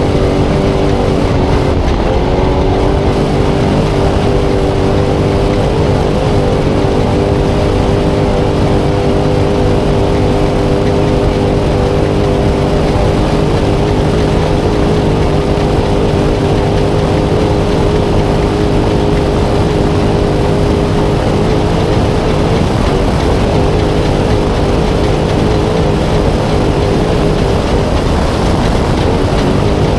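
Spec Trophy Truck's V8 engine heard from onboard, pulling at steady high revs with a brief dip and rise in pitch about two seconds in, over a constant rushing noise.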